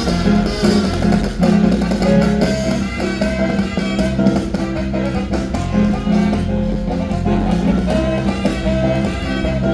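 Loud, steady dance music from a band, with a prominent bass line under plucked-string and other instrument parts.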